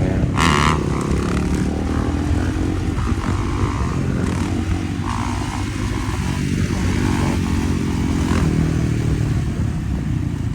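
Dirt bike engine running under way, its pitch shifting up and down a little with the throttle.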